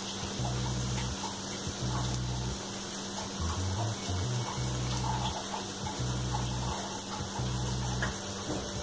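Onion and spice masala frying in oil in a kadai, a steady gentle sizzle as it cooks. Soft background music with a repeating low bass line plays with it.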